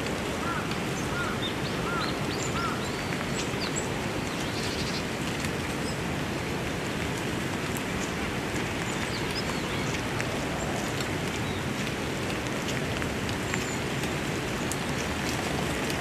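Wild birds calling over a steady background hiss: scattered short, thin, high chirps, and a quick series of about five lower arched calls in the first three seconds.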